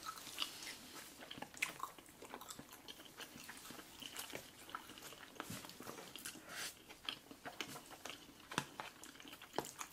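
Quiet, close-miked chewing of mouthfuls of spaghetti, with many small wet mouth clicks scattered throughout.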